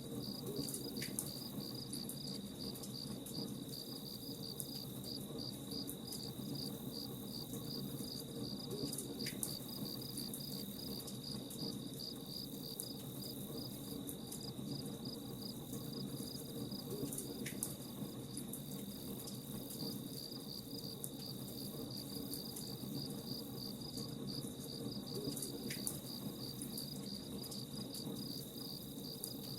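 Crickets chirping in a rapid, even pulsing trill over a steady high ringing, with a low steady hiss and faint crackles of a campfire. A short faint high note recurs about every eight seconds.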